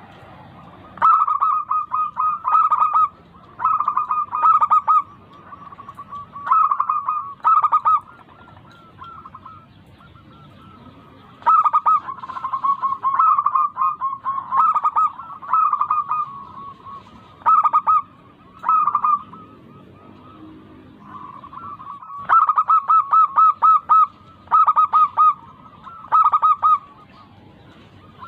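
Zebra doves (perkutut) cooing: phrases of rapid staccato notes, each a second or two long, repeated again and again with short pauses between them.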